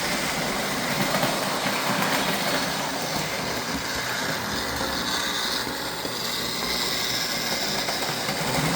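Lionel model train running along its track, a steady rolling hum that dips slightly about six seconds in.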